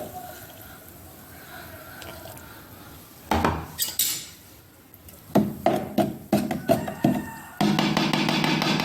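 Knocks and clinks of a blender jug and dishes being handled, then a kitchen blender motor running steadily for about two seconds near the end, blending a peanut-and-oats juice.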